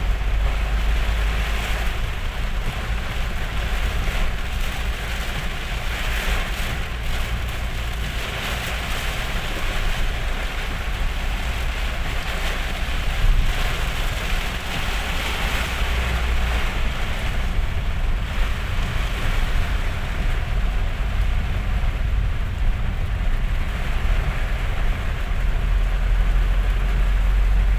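Very heavy rain pouring steadily, a dense, even hiss, over a strong low rumble.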